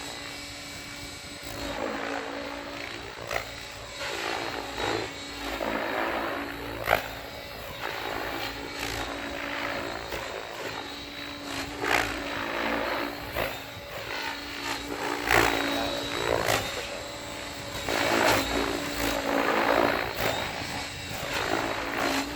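Mikado Logo 700 electric RC helicopter flying 3D flips: a steady electric motor and gear whine, with repeated rushing swooshes of the rotor blades as it flips back and forth.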